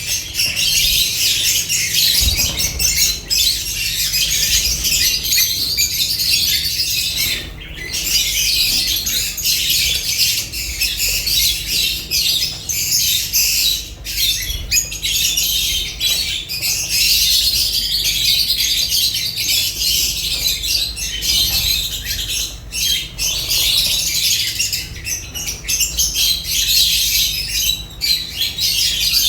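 A flock of lovebirds chattering and squawking continuously, with many overlapping shrill high-pitched calls.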